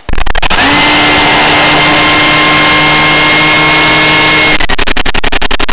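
Battery-powered RC plane's electric motor and propeller throttling up close to the camera: a loud steady whine over heavy rushing noise that starts suddenly. A little past four seconds in the whine drops in pitch and a fast regular fluttering takes over.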